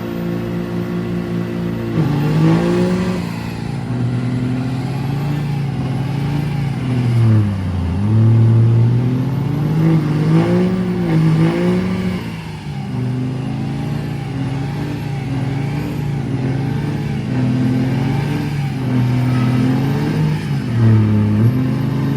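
Diesel truck engine running under way, its revs repeatedly dropping and climbing again.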